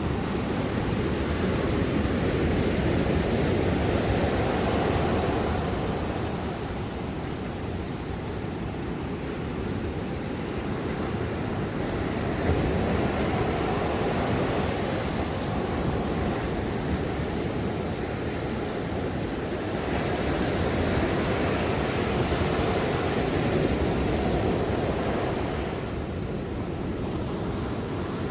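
Ocean waves breaking and washing on a shore, a steady surf rush that swells and eases in slow surges every several seconds.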